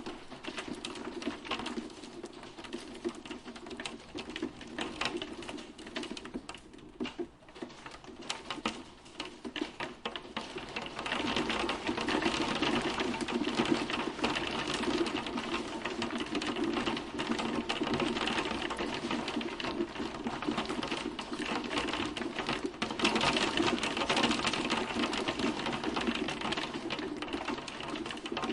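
Hailstones falling and clattering on hard surfaces: a dense, rapid patter of small hits that grows heavier about eleven seconds in.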